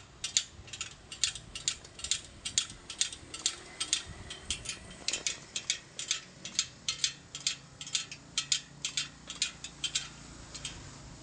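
Light metallic clicking, about three clicks a second and a little uneven, from hand work on a spoked motorcycle wheel rim during truing. The clicking stops about ten and a half seconds in.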